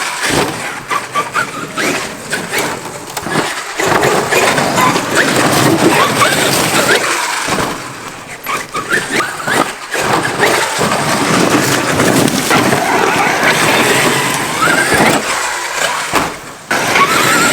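Traxxas X-Maxx RC monster truck running on its 1600 kV brushless motor, the drive whine rising and falling as it repeatedly accelerates and lets off, with a few short pauses.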